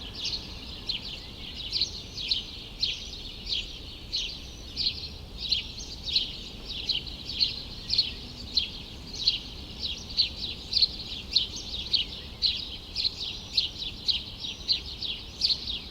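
Small birds chirping in a courtyard: a continuous string of short, high chirps, about two or three a second, over a steady low hum of city background noise.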